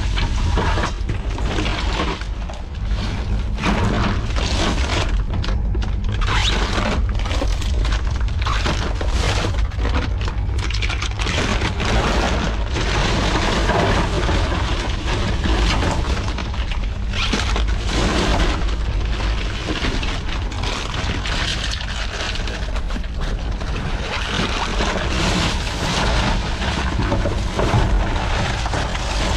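Rummaging through trash: dense, irregular crinkling, crackling and knocking of bags and discarded items being handled, over a steady heavy low rumble.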